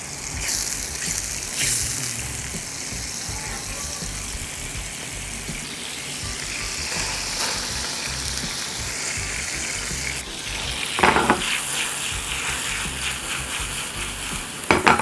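Butter sizzling in a small frying pan as minced garlic and kaffir lime leaves sauté in it: a steady frying hiss, stirred with a spatula, with a few louder bursts about eleven seconds in and again near the end.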